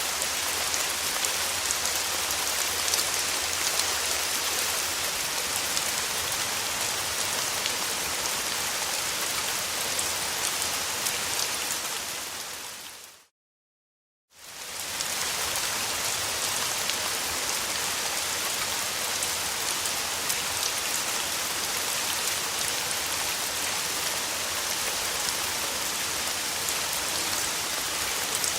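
Steady summer rain falling, an even hiss with a fine patter of individual drops. About halfway through, it fades out to a second of silence and then fades back in.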